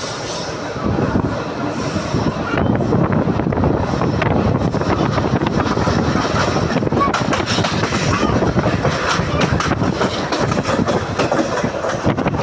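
Passenger train running, heard from a window seat inside the coach: a steady rumble with wheels clattering over the rail joints, growing louder about a second in.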